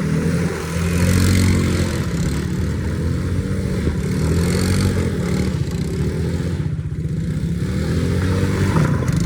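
Small off-road vehicle engine revving up and easing off again and again, about every two seconds.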